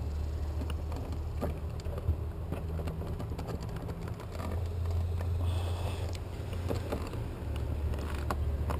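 Light clicks and taps of hands and tools working the wires in an electrical outlet box, over a steady low rumble.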